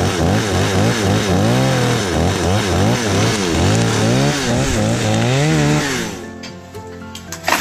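Chainsaw engine running under load, its pitch rising and falling again and again as it bogs and revs in the cut, stopping about six seconds in. A sharp crack comes near the end.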